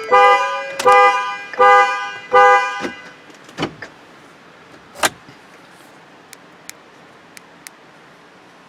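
A Ford Super Duty's horn honks in a steady repeating pulse, four times about three-quarters of a second apart, then stops: the pattern of its perimeter anti-theft alarm going off. Two sharp knocks follow, then faint ticks.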